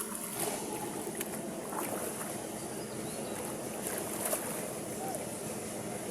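Steady outdoor noise of moving water, with wind on the microphone.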